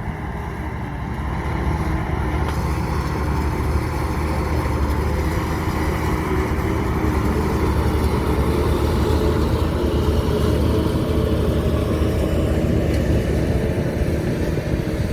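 Heavy diesel engine of a dump truck or bulldozer running steadily, growing louder over the first couple of seconds.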